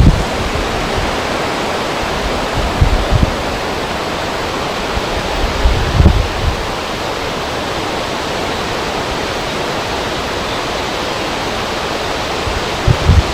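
Wind blowing over a river: a steady rushing hiss, with low gusts buffeting the microphone about three and six seconds in and again near the end.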